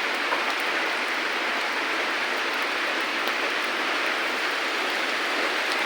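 Steady rain falling, a constant even hiss with a few faint drop ticks.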